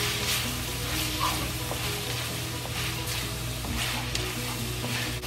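Chicken pieces and shiitake mushrooms sizzling in hot oil in a wok while a wooden spatula stirs and scrapes them, a swish about once a second. They are being slowly fried so the chicken's fat renders out into the oil.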